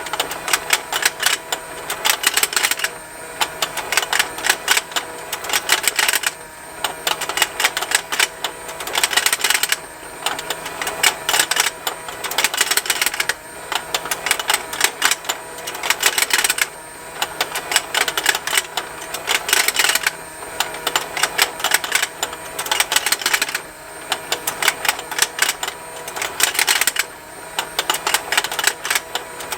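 Plastic rotating fishing-game toy running: its small motor and gears make a rapid, continuous ticking, with the fish mouths snapping open and shut. The clicking comes in dense runs that ease off briefly every three to four seconds as the pond turns, over a faint steady motor hum.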